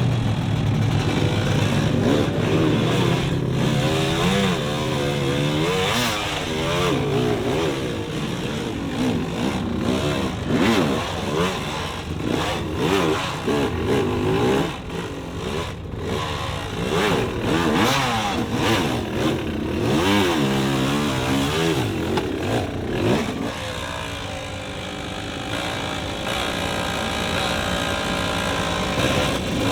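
Off-road motorcycle engines revving, the pitch rising and falling over and over as the throttle is opened and closed.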